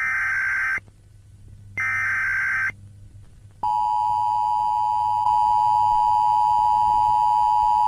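Electronic beeps: two short beeps about a second apart, then a long, steady, higher-than-speech beep that holds for about five seconds.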